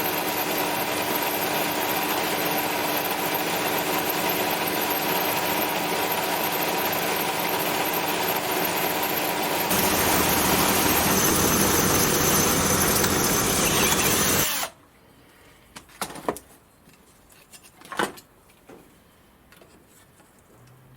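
Gingery milling machine running and milling an aluminium bar, a loud steady noise with a whine, changing in tone about ten seconds in and cutting out suddenly about fifteen seconds in. A few light clicks and knocks follow.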